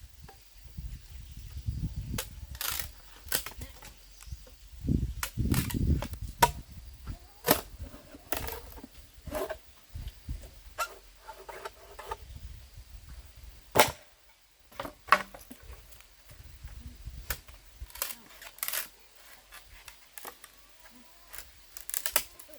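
A string of irregular sharp knocks and clacks, a few of them much louder than the rest, with dull low thumps about two and six seconds in.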